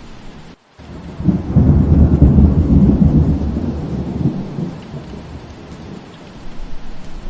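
Steady rain with a rumble of thunder that swells about a second in, stays loud for a couple of seconds, then fades away. The sound drops out for a split second just before the thunder.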